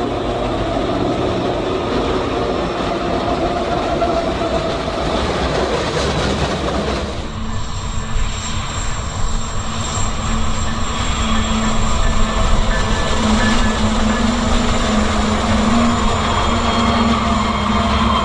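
Freight train running past on the tracks: a steady rumble with wheel and rail noise. About seven seconds in, the sound changes abruptly to a deeper rumble with a steady low hum.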